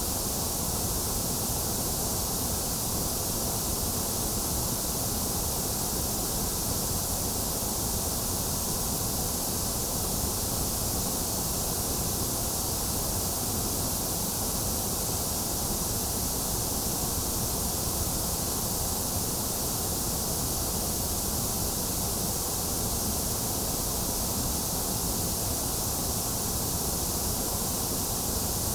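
Steady white noise sleep sound: an even, unchanging hiss with no breaks or events, strongest in the highs and lows and thinner in the middle.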